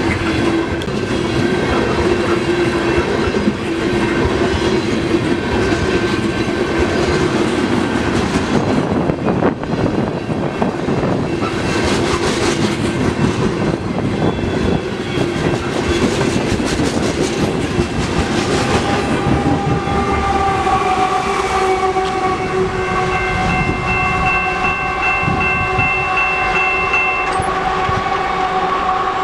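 A CP freight train rolling past, its cars clicking and rumbling over the rails. Over the last ten seconds a horn sounds a long held chord of several notes.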